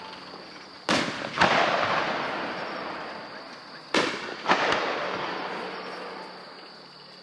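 Aerial fireworks going off twice. Each time there is a sharp bang, then a louder bang about half a second later, and a long fading tail of noise.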